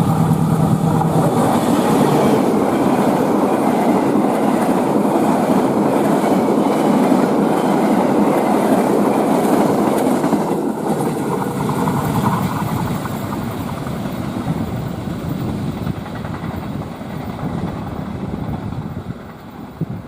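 Locomotive-hauled passenger train passing at high speed, its wheels rumbling and clattering on the rails. A steady low engine hum drops away in the first second or two as the locomotive goes by, and the coaches' rolling noise fades through the second half.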